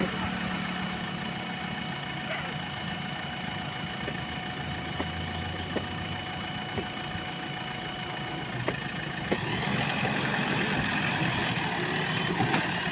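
A heavy machine's engine running steadily, with a few sharp knocks or clanks. It gets louder and busier about three-quarters of the way through.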